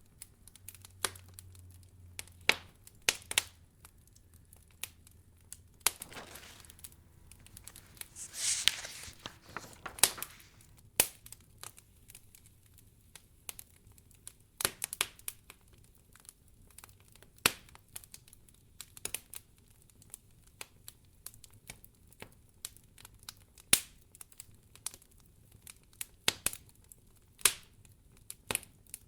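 Wood fire crackling in a fireplace: irregular sharp pops and snaps, with a brief hissing swell about eight seconds in.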